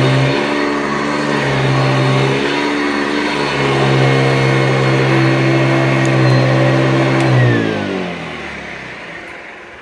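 Hoover Decade 80 upright vacuum cleaner running steadily, then switched off about seven and a half seconds in, its motor winding down with falling pitch and fading away.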